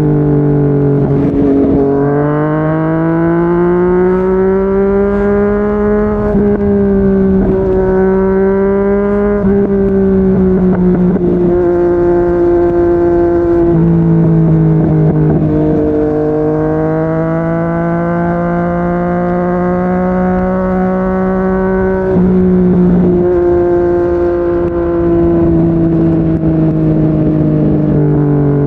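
Yamaha MT-09 inline-triple running through a Yoshimura R55 slip-on exhaust at steady expressway speed. The pitch drops and climbs back several times, and there is a low rush of wind and road noise.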